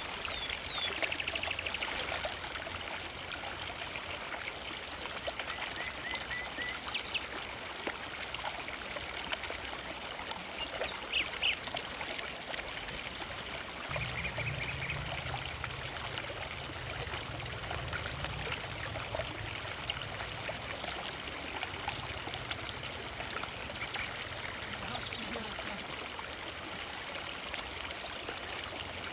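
River water flowing steadily, an even rush of water.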